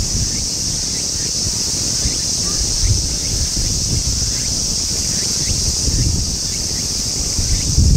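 Steady high-pitched insect chorus, with low gusty wind rumble on the microphone.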